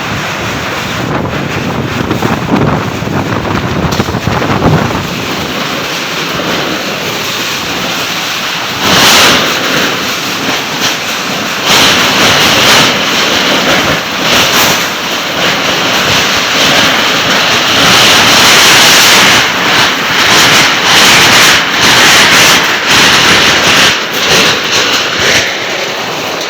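Storm wind blowing hard in loud gusts and buffeting the microphone. It is a steady rushing noise that swells stronger about nine seconds in and again from about twelve seconds on.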